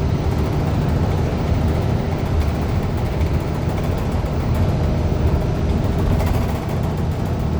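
Steady interior ride noise of a 2015 Gillig Low Floor 40-foot city bus under way: a low rumble from its CNG Cummins Westport ISL G engine and the road, with no distinct shift or knock.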